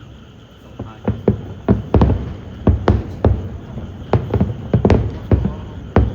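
Fireworks going off, a string of sharp bangs with deep booms coming irregularly about two or three a second, starting about a second in.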